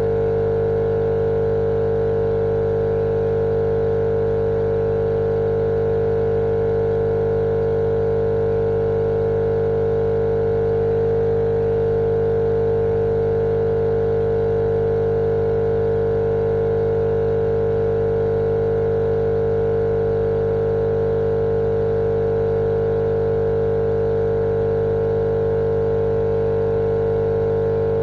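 Steady, unchanging machine-like drone: a strong hum over a light hiss, with no change in pitch or loudness, played as continuous white noise for lulling a baby to sleep.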